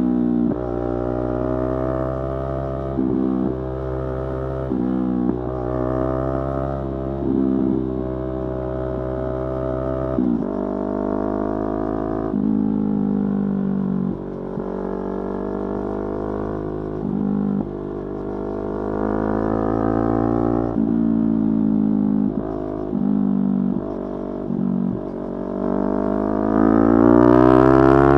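Yamaha R3's 321 cc parallel-twin engine running under way, its note stepping up and down every few seconds with throttle changes, then rising steadily near the end as the bike accelerates.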